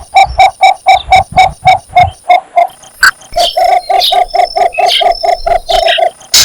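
Cinnamon bittern giving its mating call: a rapid series of evenly spaced croaking notes, about four a second, in two runs with a short pause between.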